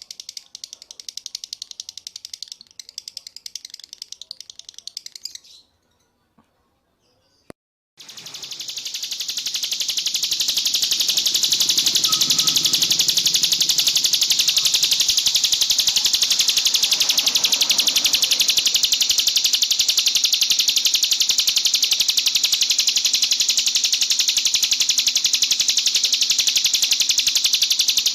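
Songbird song: a rapid high chirping trill for about five seconds, then a pause of about two seconds. After the pause a long, unbroken high trill fades in and holds steady.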